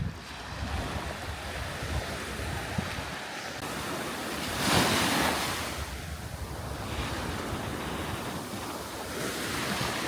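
Black Sea waves breaking and washing up the beach, swelling loudest about halfway through and again near the end, with wind buffeting the microphone.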